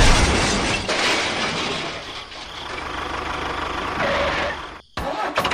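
A small engine running, with a steady noisy clatter; the sound cuts out for a moment near the end.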